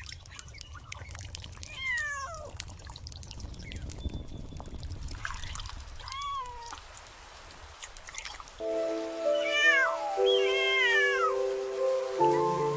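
A kitten meows four times, short falling cries, over trickling and dripping water. Gentle music comes in about two-thirds of the way through.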